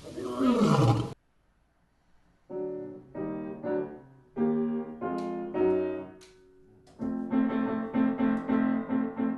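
A short animal roar falling in pitch, cut off about a second in. After a brief pause, piano music starts with a few chords and ends in a run of repeated chords, about four a second.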